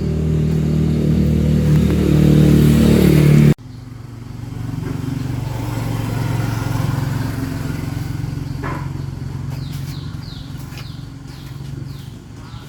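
An engine running steadily and growing louder, cut off abruptly about three and a half seconds in, followed by a quieter, steady low engine hum that slowly fades. Short high chirps come in near the end.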